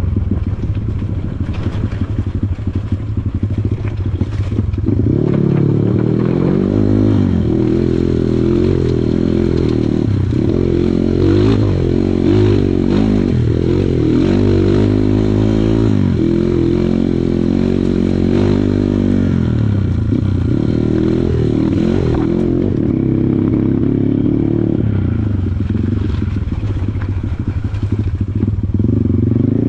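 Kawasaki KLX140 trail bike's single-cylinder four-stroke engine revving up and down again and again under throttle, with rattling and scraping alongside. It runs at a steadier, lower note in the first few seconds and again near the end.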